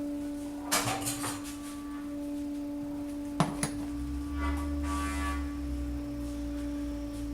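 Metal hand tools clinking and clattering against engine parts, with two sharp clicks about halfway, over a steady hum.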